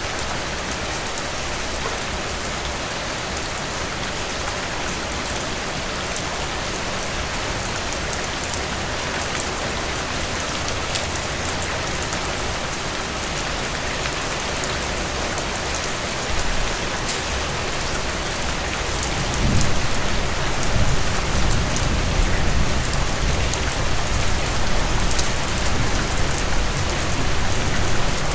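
Steady rainfall, an even hiss of drops on surfaces. About two-thirds of the way through, a low rumble joins in and the sound grows a little louder.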